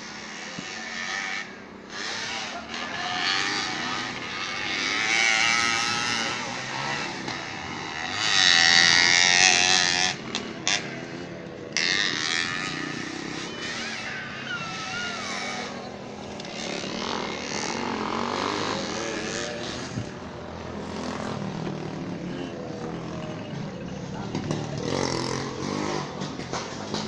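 Street motorcycle engines racing, revving up and down as the bikes go round. They are loudest as a bike passes close about eight to ten seconds in.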